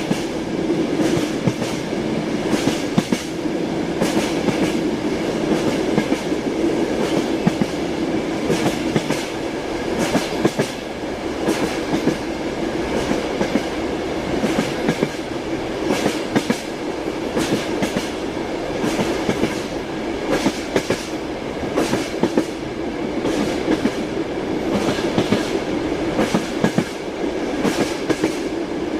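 Passenger-train wheels clattering over rail joints, heard from inside a compartment car: a steady rolling rumble with frequent, irregular clicks and knocks.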